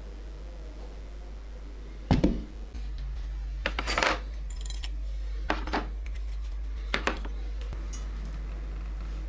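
Small metal parts being handled, giving a few sharp clinks and knocks, the loudest about two seconds in, then several more spaced out over the following seconds, over a steady low hum.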